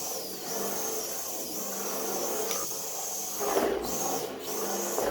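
Micro RC drift car's small electric motor and drivetrain whining, the high whine dipping and recovering in pitch several times as the throttle is eased and reapplied. Near the end come a few short scuffing sounds.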